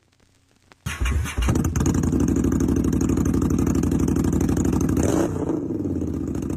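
Motorcycle V-twin engine starting about a second in, then running loud with a fast, even pulse; the sound shifts slightly about five seconds in.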